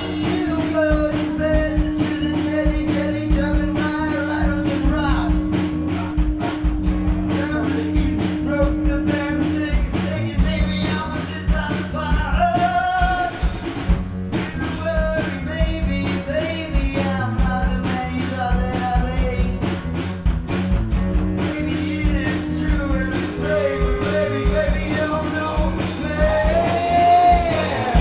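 Live gypsy rock band playing a song with a singer, drums keeping a steady beat under held instrument notes. The band is vocals with guitar, accordion, bass and drums.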